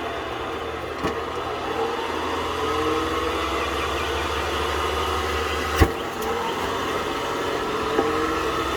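Tennis ball machine running with a steady motor hum whose pitch slowly sags and recovers, and three sharp pops as balls are launched, the loudest a little before six seconds in.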